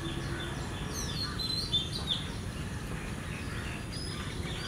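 Steady outdoor background noise with a few birds chirping briefly, about a second to two seconds in.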